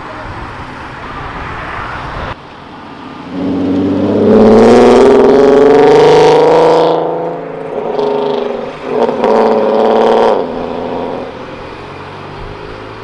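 A car engine accelerating hard as a car pulls away, loud for about three seconds and rising in pitch. After a short drop there is a second loud burst of acceleration, then it fades back to passing traffic.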